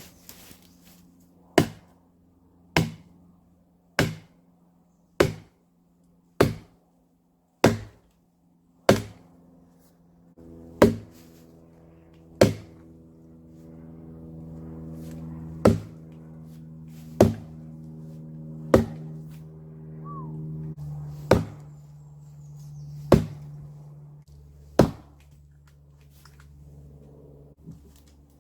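A hammer driving a wedge into an oak log to split it: about fifteen sharp strikes, at first about one every 1.2 seconds, then more slowly with short pauses. A steady low drone runs underneath and grows louder about a third of the way in.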